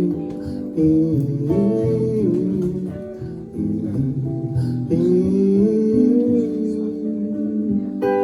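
Acoustic guitar playing an instrumental passage of a ballad, with a gliding, bending melody line over the chords.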